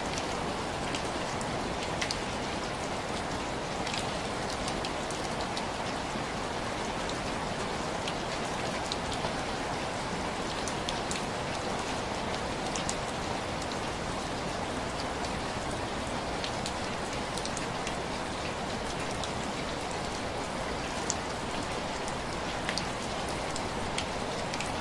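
Heavy rain falling steadily, with scattered sharp pops and crackles from a wood fire every few seconds.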